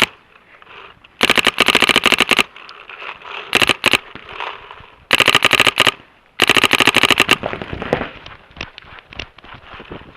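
Paintball markers firing rapid strings of shots, about ten a second, in several bursts of roughly a second each, with scattered single shots between them and near the end.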